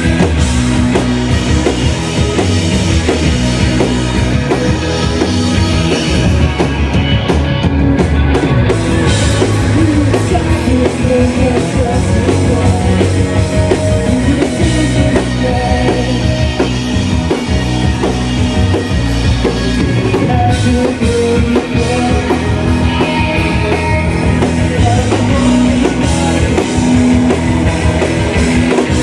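A shoegaze band playing live and loud, a dense wall of distorted guitars over a drum kit, with vocals in the mix.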